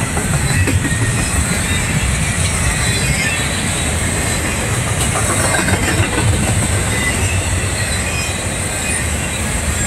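Intermodal freight train of double-stack container cars and trailer flatcars rolling past, its steel wheels on the rails making a steady low rumble with a thin high hiss over it.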